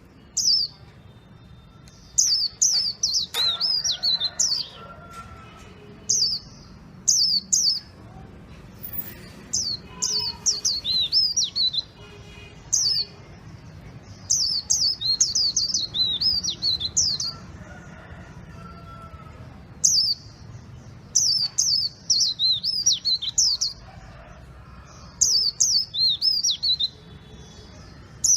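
A small songbird singing short, high-pitched phrases of rapid down-slurred notes, repeated every second or two with brief pauses between.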